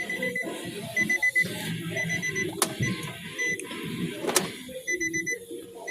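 Nissan Rogue's electronic warning chime beeping in quick runs of three or four short high beeps, repeating about once a second, now that the car has power again through a newly fitted battery fuse block. Two sharp clicks come through in the middle.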